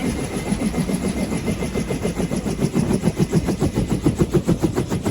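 UH-1H Huey helicopter's two-bladed main rotor beating in a fast, even thump, about ten beats a second, over the low rumble and a thin steady whine of its Lycoming T53 turbine engine.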